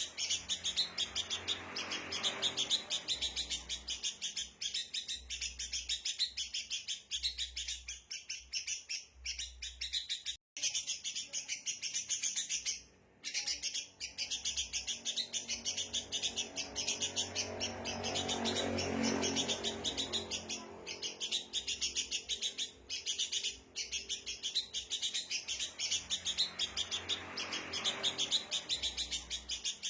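Sooty-headed bulbuls giving agitated alarm chatter: a fast, unbroken stream of sharp chirps with a couple of brief breaks. This is the rowdy call used as a lure to draw wild birds in.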